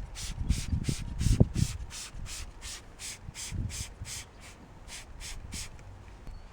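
Degreaser cleaning of grime from a car's rocker panel: a quick, even run of short hissing strokes, about three a second, that stops about five and a half seconds in, with a few low thumps in the first couple of seconds.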